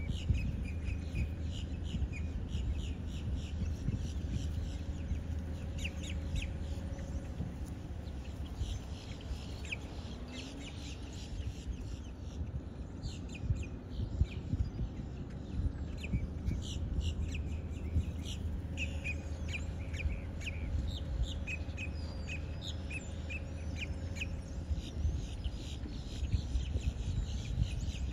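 Birds chirping, many short high calls throughout, over a steady low rumble.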